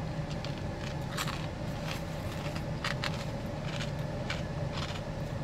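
A person chewing food, with a few short crisp clicks and crunches, over a steady low hum.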